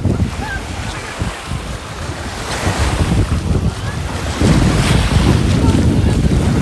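Wind buffeting the microphone over waves washing on a beach. The wind rumble eases about a second in and picks up again about four and a half seconds in.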